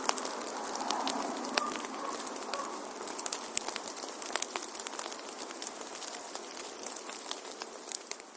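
Wood fire in a fireplace crackling, with irregular sharp pops and snaps over a steady soft hiss.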